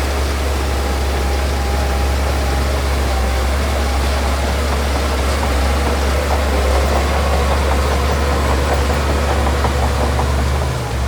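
Diesel engine of heavy earthmoving machinery running steadily with a deep rumble and a whine, with some rattling and clanking in the second half.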